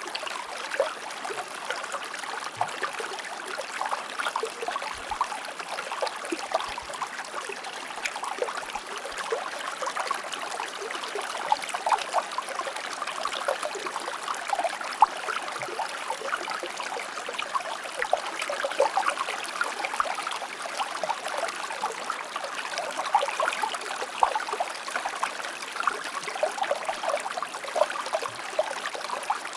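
A shallow river or stream flowing steadily, with constant babbling and many small splashes and trickles over rocks.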